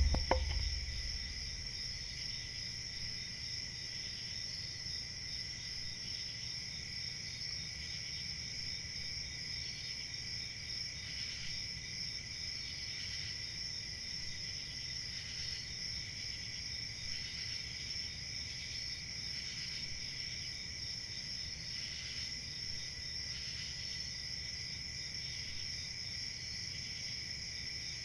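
Crickets chirping in a steady, continuous chorus, with a fainter pulsing call repeating about every two seconds. A brief low thump sounds right at the start.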